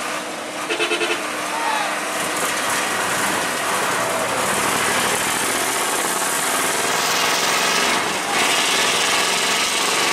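Heavy diesel machinery running hard under load, growing louder around 8 seconds in, with a brief rapid pulsing beep about a second in.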